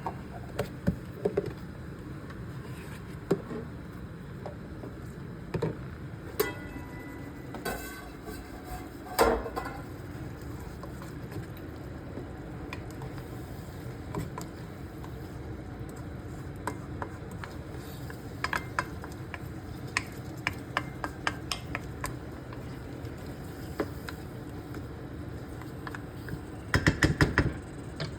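Utensil stirring chicken in a karahi, clinking and scraping against the metal pan over a steady low sizzle. A quick run of clatters comes near the end.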